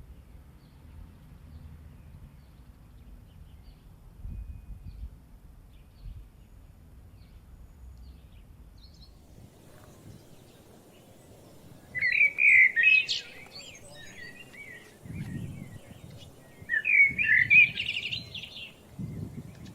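A bird singing in two loud chirping phrases, the first about twelve seconds in and the second a few seconds later, over a quiet outdoor background with a few low rumbles.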